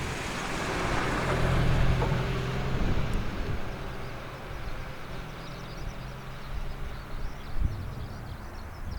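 AH-64D Apache helicopter running, with a steady low rotor beat under a rushing turbine and rotor hiss that swells about a second or two in and then eases off.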